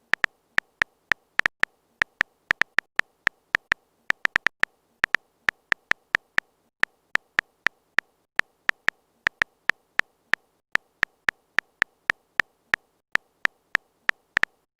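Typing sound effect: a run of short, sharp key clicks at an uneven pace, a few a second with brief pauses, like a message being typed on a phone keyboard.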